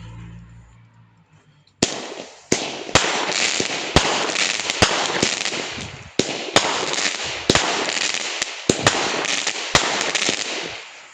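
A nine-year-old retro firework battery (cake) firing. After a short lull, sharp bangs start about two seconds in and follow one another at roughly two a second, with dense crackling between them. The sound tails off near the end.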